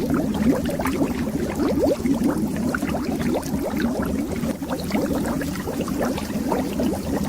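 Air bubbles rising underwater in a dense, continuous stream, with many short blips that each rise in pitch.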